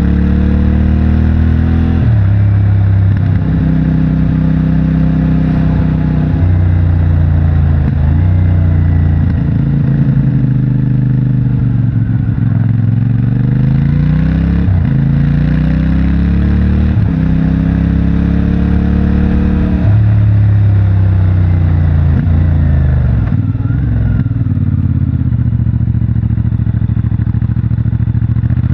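CFMOTO 450MT's parallel-twin engine on its stock exhaust, pulling through the gears on the road. The note climbs steadily and drops sharply at each gear change, about five times, and falls away in between as the bike slows, then builds again.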